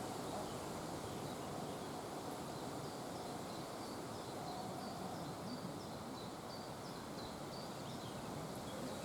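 A small songbird singing a run of short, high, quick notes over a steady rustle of wind and leaves outdoors.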